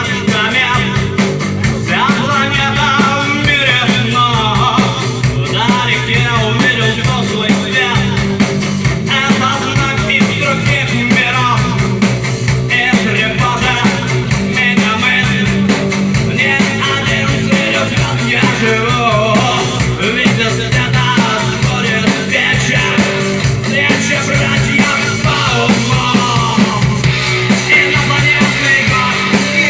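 Rock song being performed with a singer's voice over the band, running steadily throughout.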